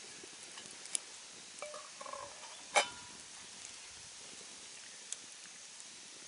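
Wood campfire crackling: a steady hiss with scattered sharp pops, the loudest about three seconds in, and a few faint short clinks just before it.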